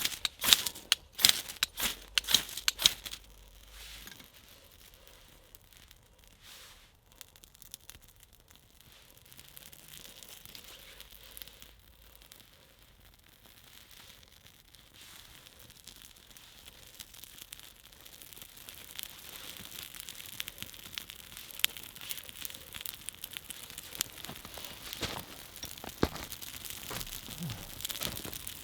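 Sharp tearing and crinkling in the first few seconds, as fire tinder is torn and crumpled. Then a campfire catches, with fine crackling that grows steadily louder.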